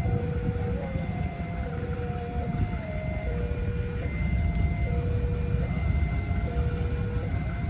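Train running past with a heavy, steady low rumble. A slow sequence of held notes, like a simple melody, plays over it.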